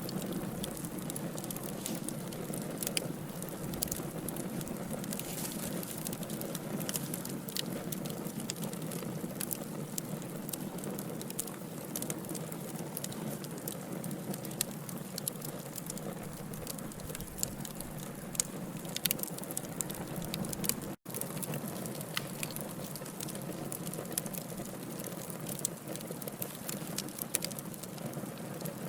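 Wood fire burning in a fireplace: crackling logs, with frequent sharp pops over a steady hiss. The sound cuts out for a split second about two-thirds of the way through.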